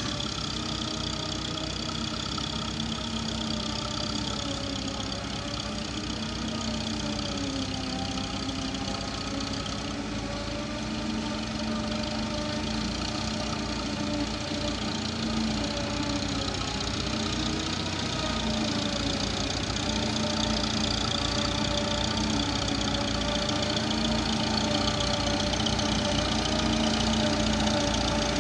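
Massey Ferguson tractor's diesel engine running steadily, with slight dips and rises in engine speed and growing a little louder toward the end.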